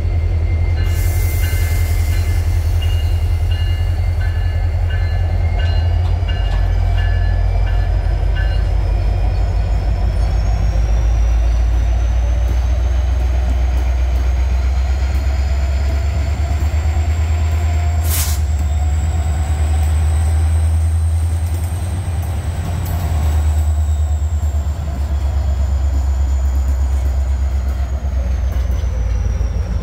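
Two CSX diesel freight locomotives passing close by with a loud, steady low rumble, then their train of hopper cars rolling behind. A repeated high ringing sounds for the first several seconds, and a thin high wheel squeal slowly rises in pitch through the rest, with one sharp clack about two-thirds of the way through.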